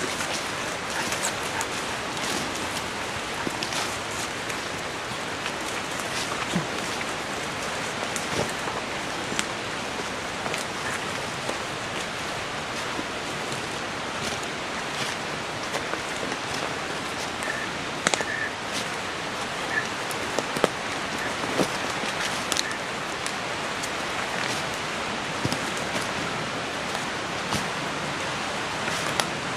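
Steady hiss of light rain on the forest leaves, with scattered small clicks and snaps from footsteps on the leaf-littered trail.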